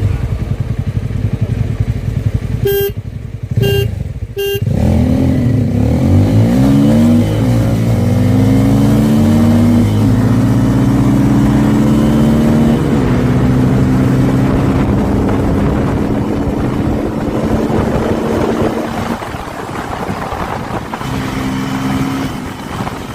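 Motorcycle engines (a Jawa 42 FJ and a Pulsar N250) idle, then three short electronic beeps sound as a start countdown. The bikes then launch hard and accelerate through the gears, the engine pitch climbing and dropping back at several gear changes. Near the end the revs come off and the engines run lower and quieter.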